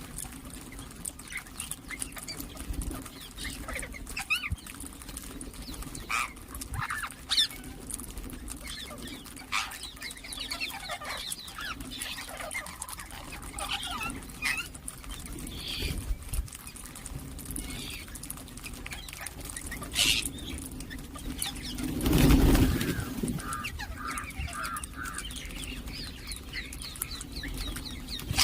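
Ringneck parakeets chirping and calling in short, scattered bursts over a steady low hum, with a brief louder rush of noise about two-thirds of the way through.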